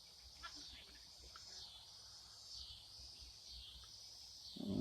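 Faint outdoor insect chorus: a high-pitched buzzing that swells and fades in waves, with a few light clicks.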